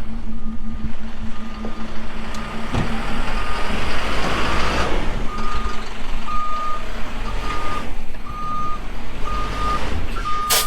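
Vehicle backup alarm beeping steadily, about once a second, over a running engine, with a rush of engine and wheel noise swelling about three to five seconds in.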